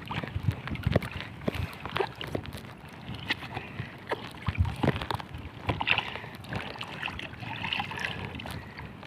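Water sloshing and splashing with many small knocks and clicks scattered through it.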